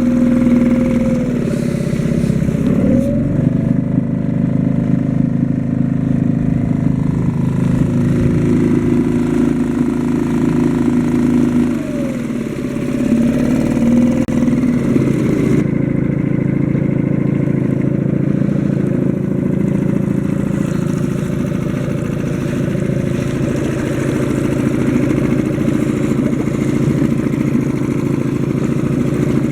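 Suzuki DF2.5 single-cylinder four-stroke outboard motor running steadily. The engine speed dips and comes back up twice, once near the start and once about twelve seconds in. The motor is new and in its first hours of running-in.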